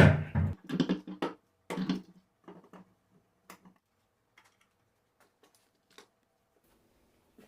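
Irregular clicks and knocks of parts and tools being handled on a workbench. They come thickest in the first two seconds, then thin out to a few scattered light taps.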